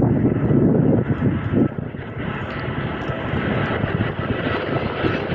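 Airbus A380's four jet engines as the airliner passes, a loud rumble. About two seconds in the deep rumble eases a little and a higher hiss builds.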